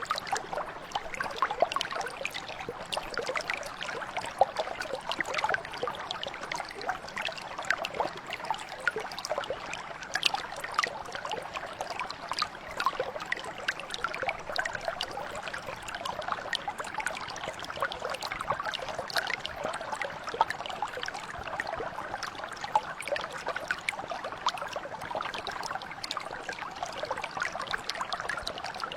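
Small stream or mountain brook flowing over stones, a steady trickling and burbling dense with small splashes.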